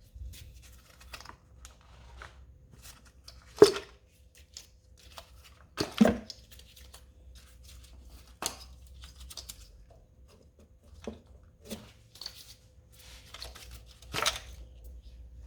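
Hand work on a Toyota 2AZ-FE engine while the ignition coils are removed: scattered sharp clicks and knocks of plastic and metal parts, about half a dozen over the stretch, with quieter rustling between them.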